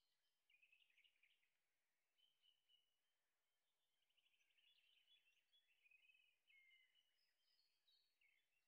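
Very faint bird chirps and trills: several short, high-pitched phrases with brief pauses between them.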